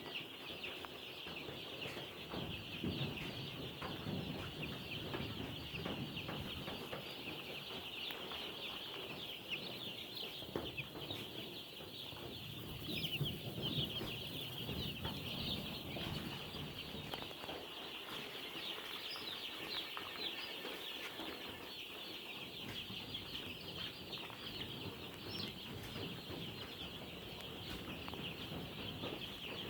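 A brood of day-old broiler chicks peeping without pause, many short high calls overlapping into a continuous chorus.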